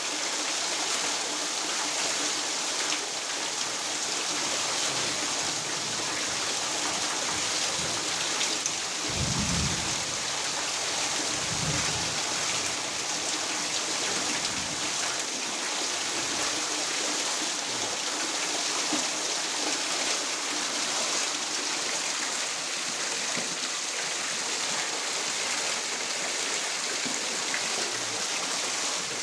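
Steady rain with a constant hiss, and a brief low rumble about nine and twelve seconds in.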